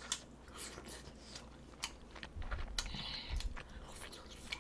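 A person chewing and biting chewy tteokbokki rice cakes close to the microphone: a run of soft, wet mouth clicks and smacks, unevenly spaced.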